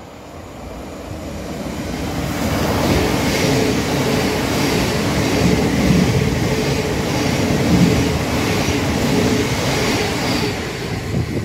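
Thameslink Class 700 electric multiple unit passing along the platform. It grows louder over the first few seconds as it approaches, then holds a steady running noise with a regular clatter of the wheels while the carriages go by, easing off near the end.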